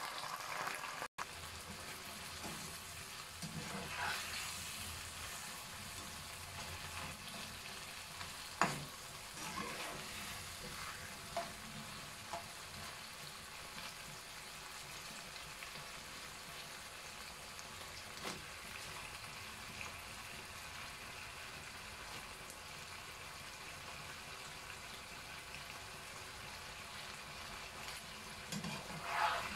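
Meat and vegetables sizzling steadily in a wok during a stir-fry, with a few sharp clicks of a spatula against the pan, and a louder burst of stirring near the end.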